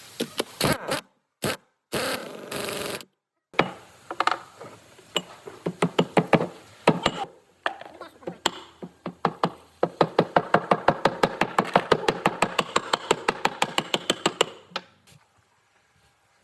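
Workshop tool noise: scattered sharp clicks and knocks, then a quick, even run of clicks, about eight a second, lasting some five seconds and stopping about a second and a half before the end.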